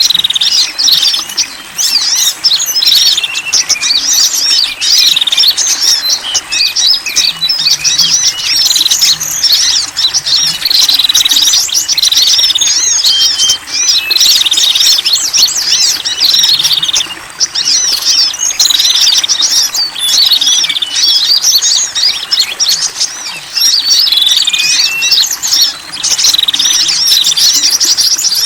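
Small wild birds chirping and twittering, dense and high-pitched, in rapid overlapping phrases with short breaks every few seconds: a mixed bird-lure call recording made to draw small birds in.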